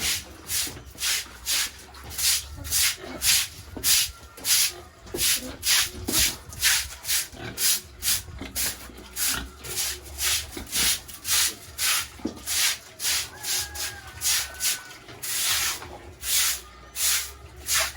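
Rhythmic scraping strokes, about three a second, over a faint low hum.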